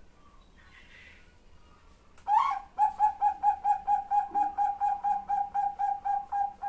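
Female zebra dove (Bangkok-strain perkutut) calling to a male: a loud opening note about two seconds in, then a fast, even run of short coos, about five a second, to the end.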